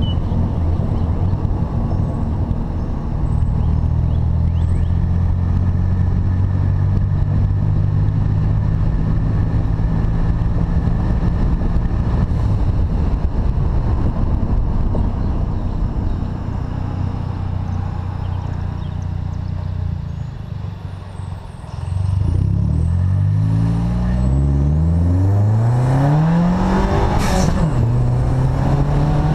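2012 Chevrolet Sonic's 1.4-litre turbocharged four-cylinder engine, with aftermarket intake and resonator-only exhaust, running at a steady pitch, then easing off about twenty seconds in. It then accelerates, its pitch rising in several climbs broken by gear changes, with a brief hiss near the end.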